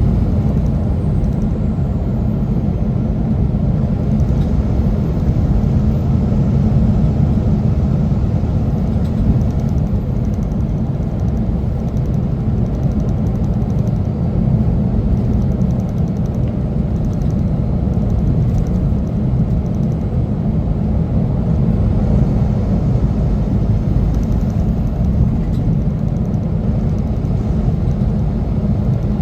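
Semi truck on the road: a loud, steady low rumble of engine and road noise that holds level without revving up or down.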